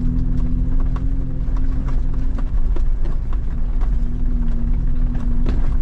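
Jeep Wrangler rolling slowly along a dirt trail: a steady engine hum with frequent small clicks and knocks from the tyres and suspension working over gravel and rocks.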